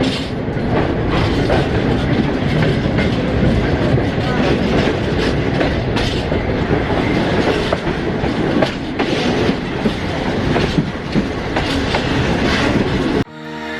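Mountain railway train rolling along the track, heard from on board: a steady rumble with irregular wheel clicks and knocks over the rail joints. About thirteen seconds in, it cuts off suddenly and electronic music begins.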